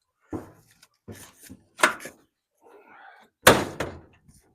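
Sharp knocks and clunks from handling an electric clothes dryer's door and sheet-metal cabinet, several separate hits with the loudest about three and a half seconds in.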